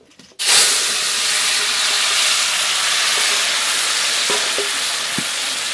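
Wet taro curry mixture poured into hot oil in a metal wok, over a tempering of dried red chillies and nigella seeds. It bursts into a loud sizzle about half a second in and keeps sizzling steadily, with a couple of light utensil knocks later on.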